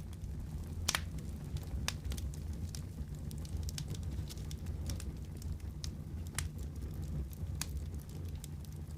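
Wood fire crackling in a fireplace: a steady low rumble of flames with scattered sharp pops, the loudest about a second in.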